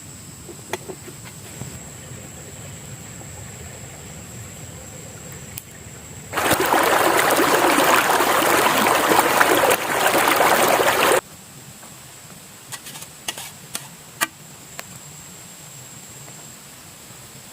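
Water pouring for about five seconds, starting and stopping abruptly, then a few light knocks, over a steady high chirring of insects.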